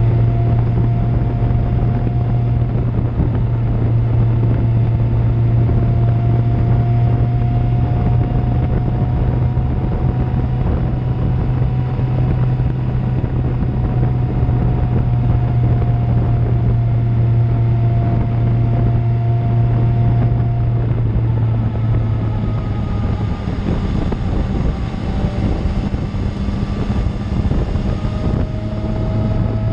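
2000 Suzuki GSX-R750's inline-four engine through an Akrapovic exhaust, cruising at fairly steady revs with wind rushing over the microphone. The revs ease off about two-thirds of the way through and pick up again near the end.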